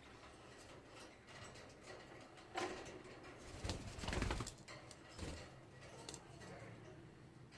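Pet cockatiels' soft calls and small movement sounds, with a louder burst carrying a low thump about four seconds in.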